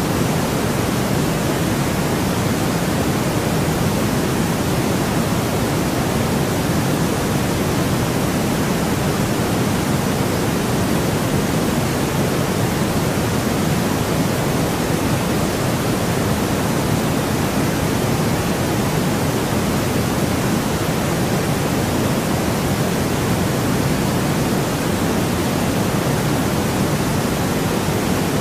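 Steady generated white noise: an even, unchanging hiss that is heaviest in the lower range.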